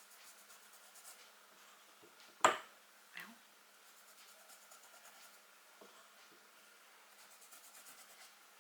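Light, quick rubbing strokes over cardstock as shimmer mousse is worked gently onto the paper. A sharp knock about two and a half seconds in is the loudest sound, with a smaller tap shortly after.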